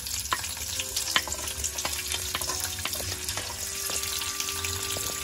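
Chopped onions and a split green chili sizzling in hot oil with cumin seeds and whole spices, with a steady hiss and frequent sharp crackles.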